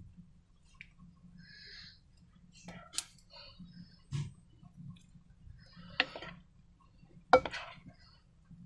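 Slime being squeezed and worked by hand: scattered sticky clicks and squelches, with three sharper snaps, the last the loudest.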